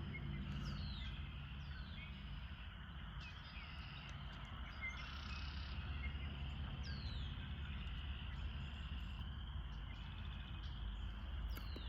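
Outdoor nature ambience of crickets trilling steadily, with several short, falling bird chirps over it and a low rumble underneath.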